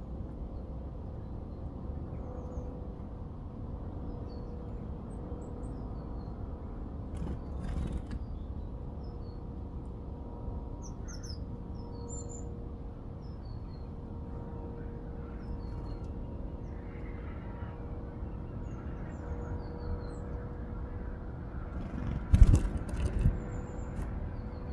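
Small garden birds giving short, high chirps scattered throughout, over a steady low rumble and a faint steady hum. Sharp knocks come about seven seconds in and again in a cluster near the end, the loudest sounds.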